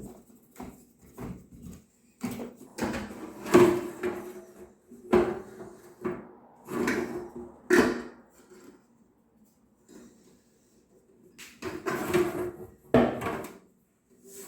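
Irregular clunks, knocks and scraping of hard parts being handled, in uneven bursts with a pause about two-thirds of the way through.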